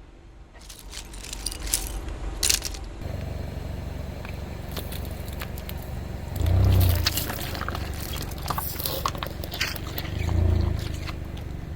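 Car tyre rolling slowly over small objects, crushing them with scattered crackles and crunches over the car's low engine rumble. The rumble swells twice, around the middle and near the end.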